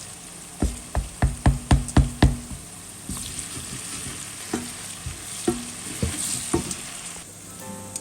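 A spoon stirring food in a cooking pot, knocking against it seven times in quick succession about a second in, then a few single knocks, over food sizzling.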